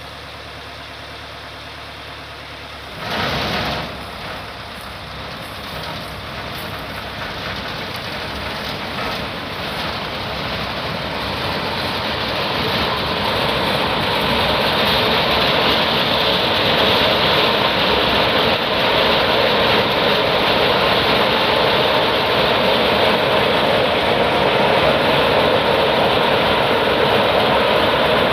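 Tractor engine running steadily, driving a thresher. About three seconds in comes a sudden loud burst, after which the thresher's dense rushing noise builds steadily louder.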